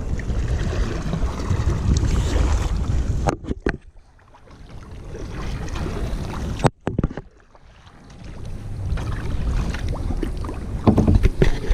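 Wind rumbling on the microphone over water sounds from a sea kayak under way. The noise drops away sharply twice, a little after three seconds in and again around seven seconds, then builds back up.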